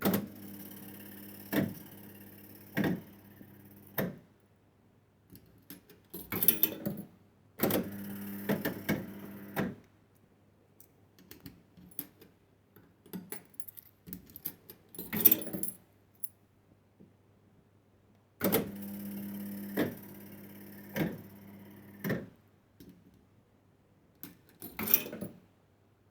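1970s fruit machine's reels spinning three times: each spin is a steady motor hum ended by three clunks about a second apart as the reels stop one after another. Short rattles come between spins.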